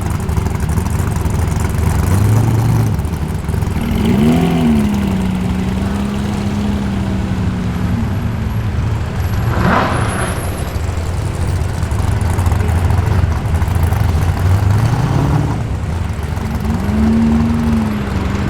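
Car engines running at low speed as cars roll in, with a throttle blip rising and falling in pitch about four seconds in and another near the end, and a short sharp burst about halfway through.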